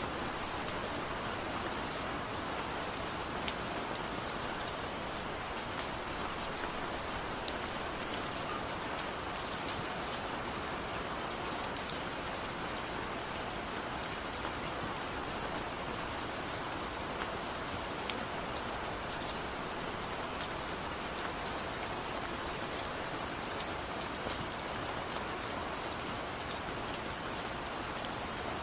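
Steady rain falling, with a continuous hiss and many small drop ticks on surfaces.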